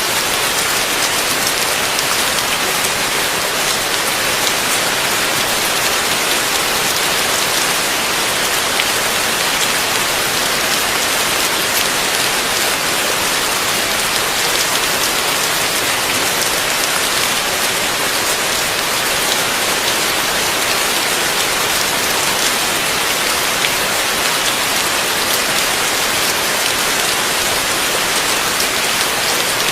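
Heavy rain falling steadily: a dense, even hiss of countless drops striking surfaces, with no thunder.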